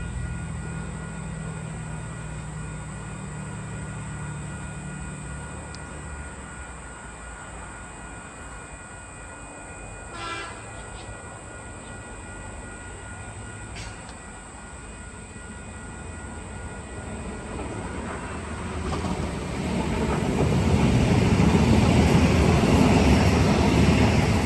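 A train's engine hum fades away, then another train approaches and passes on the rails, its noise swelling from about three-quarters of the way in and staying loud. A brief horn sounds about ten seconds in.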